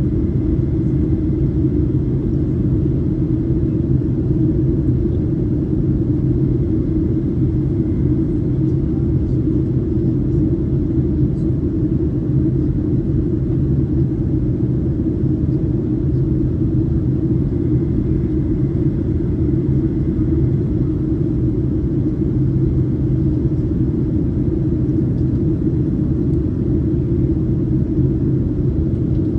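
Steady engine and airflow rumble heard inside the cabin of a Boeing 737-800, an even low drone with no change in pitch or level.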